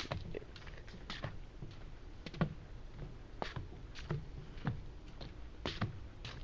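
Slow footsteps on a dirt trail: soft, irregular steps roughly one a second.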